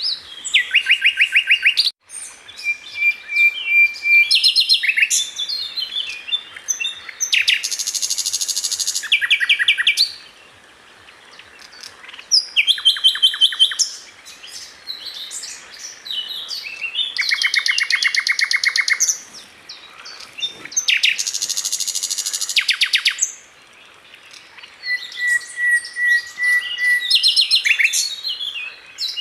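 Sikatan londo flycatcher singing a loud, varied song. Fast trills of rapidly repeated high notes alternate with short held whistles and brief pauses.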